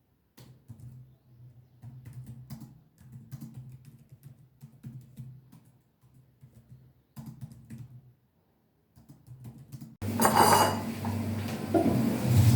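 Scattered light clicks and taps over a faint low hum, then about ten seconds in a much louder steady noise starts suddenly, with some clattering.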